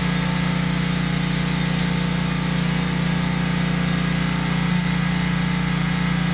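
A motor-driven machine running steadily at an even pitch without a break.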